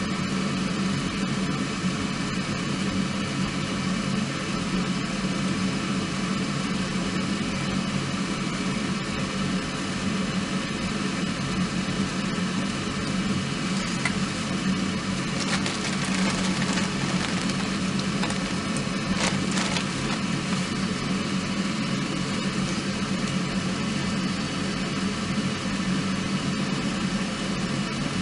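Small wood fire crackling in a compact fire pit, scattered crackles and pops, busiest about halfway through, over a steady, unbroken hum.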